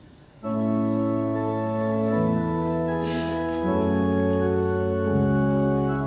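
Organ starting about half a second in, playing slow, held chords that change every second or so: offertory music for the collection.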